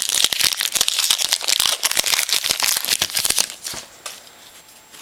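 A trading card pack's wrapper being torn open and crinkled, a dense crackle that stops about three and a half seconds in, leaving a few faint clicks of cards being handled.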